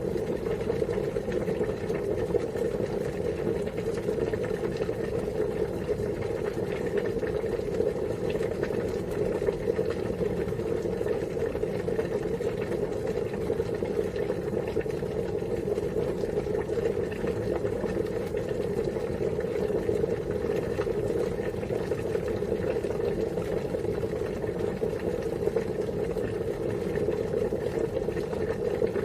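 Water boiling, with a steady, even bubbling.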